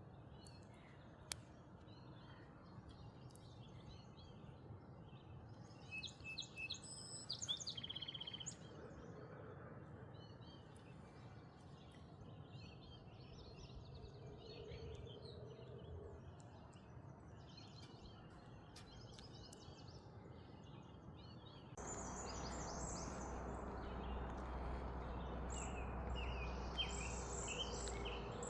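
Wild birds chirping and singing in short scattered calls over a faint outdoor background. About two-thirds of the way through, a steady low rushing noise comes in and holds.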